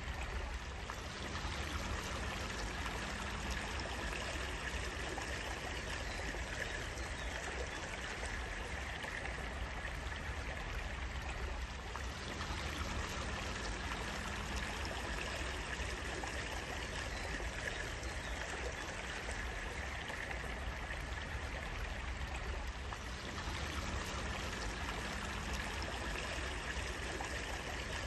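Steady running water of a stream, flowing and trickling without a break.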